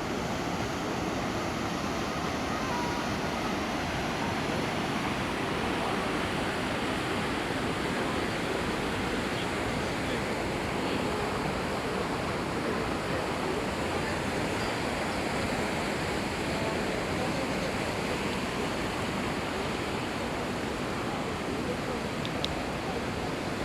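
Kamo River water rushing steadily.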